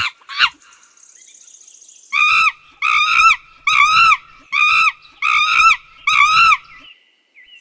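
A monkey calling: a short call, then a series of six loud, high, arching calls about three-quarters of a second apart.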